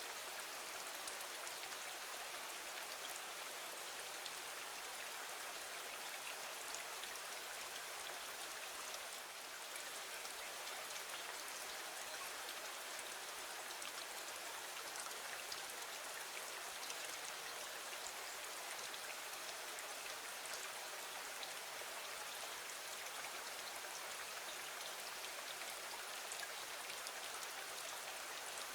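Steady rain: an even hiss of falling water with a fine patter of individual drops.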